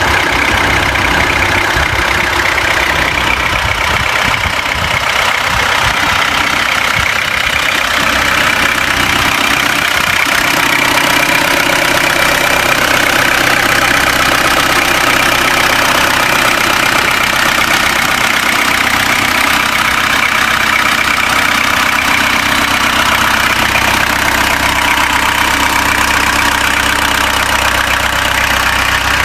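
Peugeot 404's four-cylinder engine idling steadily.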